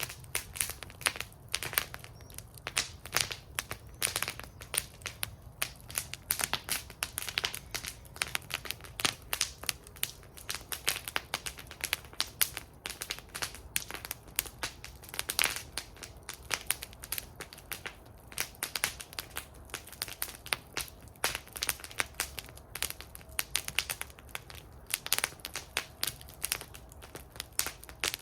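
Wood fire burning in a fire bowl, crackling and popping constantly with many irregular sharp snaps over a faint low hiss.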